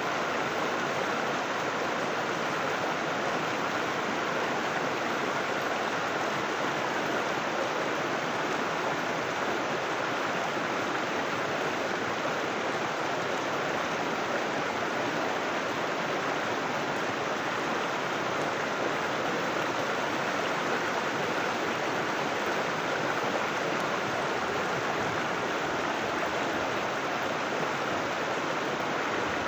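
River water flowing over rocks: a steady, even rush of water that does not change.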